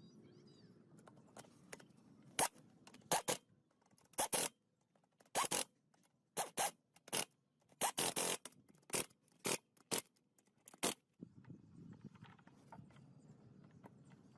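About a dozen short scraping strokes at irregular intervals, each a fraction of a second long, falling quiet again near the end.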